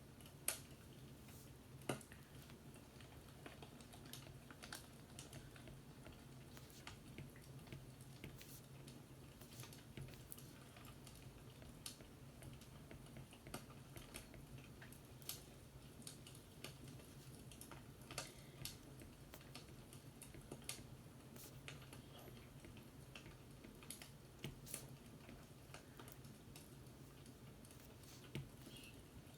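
Faint fireplace crackling: irregular sharp pops and snaps over a low steady hum, with two louder pops near the start.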